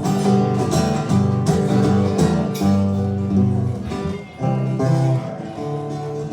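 Acoustic guitar strumming chords, with a brief drop in level a little past four seconds in, and no singing.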